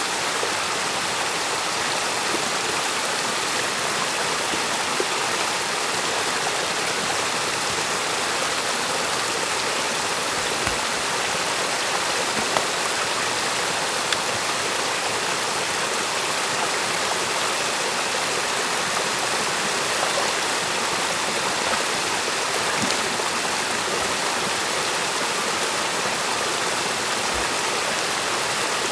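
Stream water rushing steadily, as through a beaver dam being opened by hand, with a few faint knocks.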